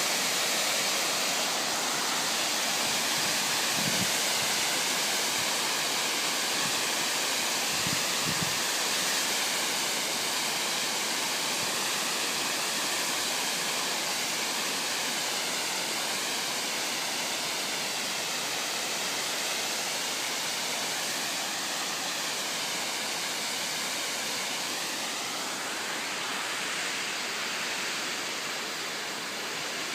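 Oshinkoshin Falls, a waterfall, giving a steady, dense rush of falling water whose tone slowly shifts.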